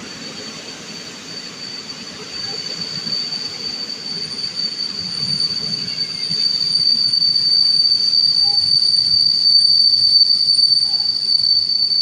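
A train at a station, its wheels squealing in one steady high-pitched tone over a low rumble of the wheels, growing louder and peaking about two-thirds of the way through.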